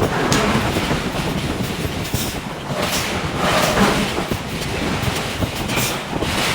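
Forge shop working a hydraulic forging hammer: a steady heavy rumble with several irregular sharp knocks.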